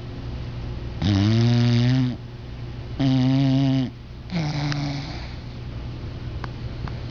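English bulldog snoring in its sleep: three loud, pitched snores in about four seconds, the third shorter and fainter.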